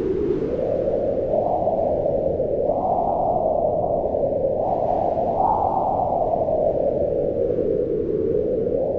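Mountain wind howling: a steady, muffled rush whose moaning pitch swells upward in a few gusts and then sinks back near the end.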